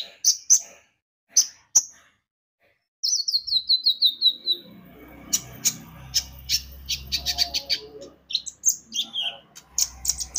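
Kolibri ninja (konin) sunbird singing: a few sharp high chirps, a short pause, a run of notes falling in pitch about three seconds in, then a fast chattering series of high notes.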